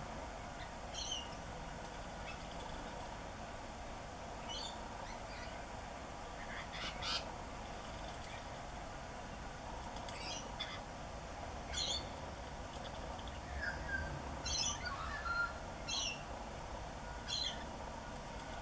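Superb parrots calling: about eight short, harsh, high calls spaced a second or more apart, with a couple of lower sliding calls among them, over a steady background noise.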